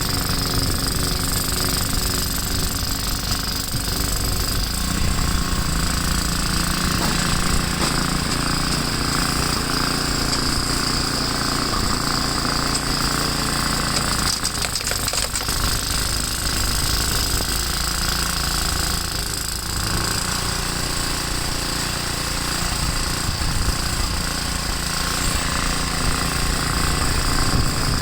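Gravely L8 walk-behind tractor's single-cylinder engine running steadily while plowing deep snow. Its note changes a couple of times as the load changes.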